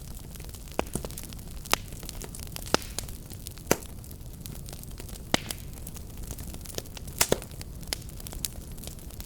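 Wood fire burning with a steady low rumble and sharp, irregular crackles and pops, a few of them loud.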